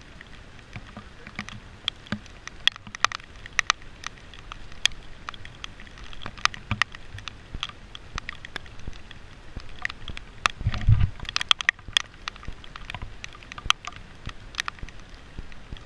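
Raindrops striking a nearby surface in irregular sharp ticks over a faint steady hiss of rain. There is one heavier low thump about eleven seconds in.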